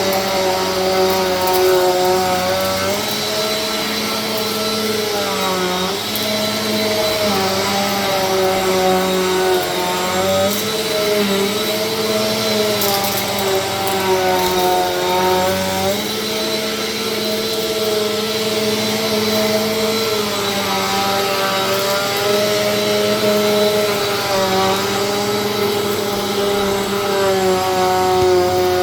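Vacuum cleaner running steadily, its motor whine dipping in pitch and coming back up every few seconds over a constant rush of air.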